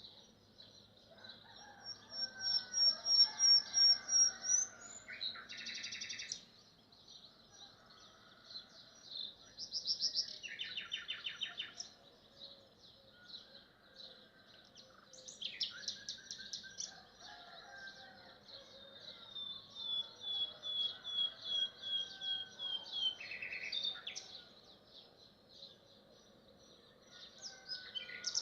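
Nightingale singing in separate phrases of rapid repeated notes, clicks and whistled trills, with pauses of a few seconds between phrases. The loudest phrase comes in the first few seconds.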